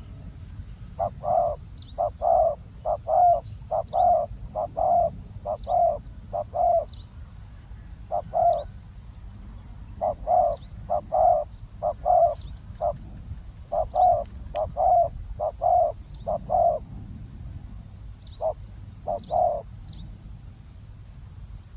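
Spotted doves cooing: runs of low, evenly pitched coos, several to a phrase, with short pauses between phrases. Faint, short high chirps sound alongside about once a second, over a steady low rumble.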